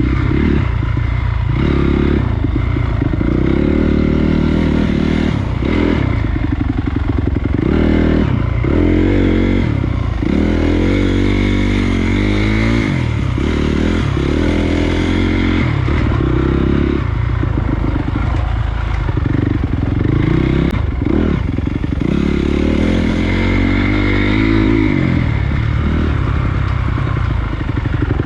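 Honda CRF250 dirt bike's single-cylinder four-stroke engine running hard, its pitch rising and falling again and again as the throttle is opened and closed.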